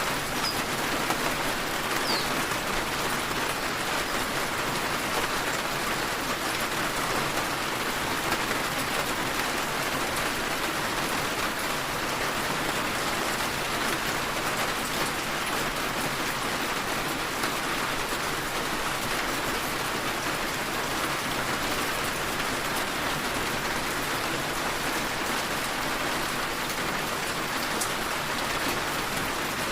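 Steady rain falling: an even, dense patter that holds at one level without let-up.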